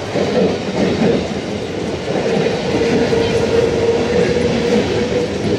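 Mumbai suburban electric local train running past at close range, a steady rumble of its moving coaches. A steady whining tone joins in about halfway through.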